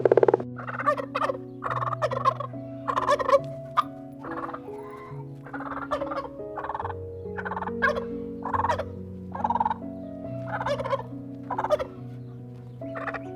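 Fowl calling in short rapid bursts, roughly one a second, over background music of held notes.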